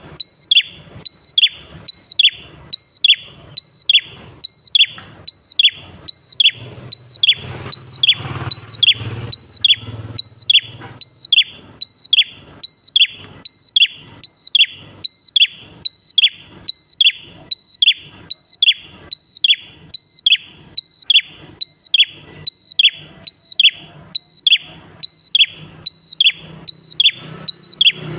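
Prenjak klawu calling over and over at an even pace, about three calls every two seconds. Each call is a short high note followed by a quick falling sweep.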